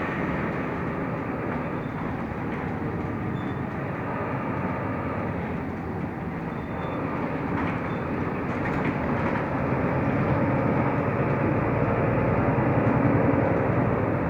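Mercedes-Benz O345 Conecto LF city bus on the move, heard from inside the cabin: a steady rumble of engine and road noise that grows louder in the second half.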